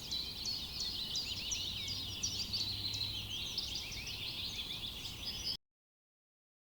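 A chorus of many small birds chirping at once, dense overlapping short high calls, over a faint low steady hum; it cuts off suddenly about five and a half seconds in.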